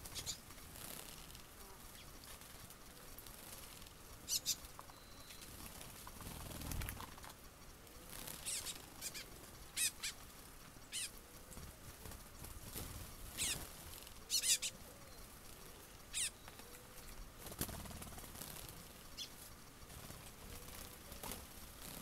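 Small birds chirping: brief high chirps every second or two, scattered irregularly, with a couple of soft low wing-flutter thumps.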